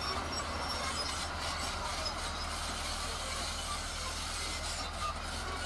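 Heavy earthmoving machinery running steadily, with a constant low engine hum under a continuous mechanical noise.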